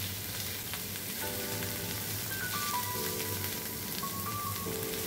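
Paneer cubes shallow-frying in a little oil on a tawa, a steady sizzling hiss. Soft background music with a stepping melody comes in about a second in.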